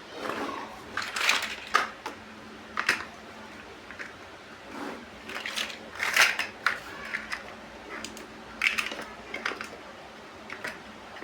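Plastic building bricks being handled and pressed together: irregular clicks, clatter and rustling, with several sharp snaps.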